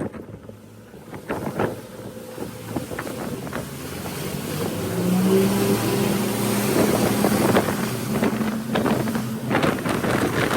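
Twin 300 hp outboard engines throttling up as a 28-foot center-console boat accelerates onto plane through choppy water. The engine tone comes in and grows louder about halfway through, with wind rushing over the microphone and short thuds throughout.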